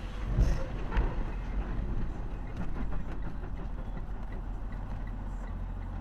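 Steady low rumble of a running vehicle engine, with a few short knocks in the first second.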